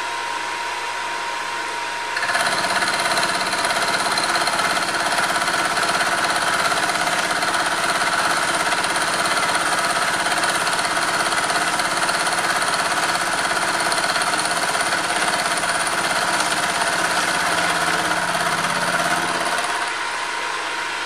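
Hare and Forbes HM48 milling machine running, its cutter biting into metal about two seconds in and cutting steadily through one long pass, then running free again near the end.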